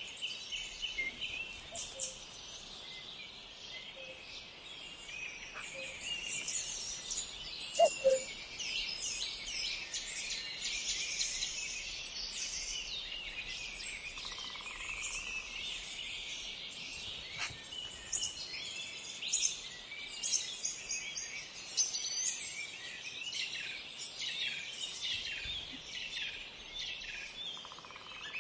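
Several songbirds singing and chirping at once, a dense, continuous chorus of high chirps and trills. About eight seconds in, one brief, louder, lower-pitched call stands out.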